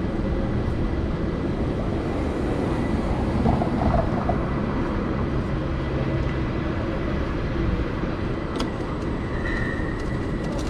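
Steady city traffic and road noise heard while riding through the streets, a continuous low rumble with no single event standing out.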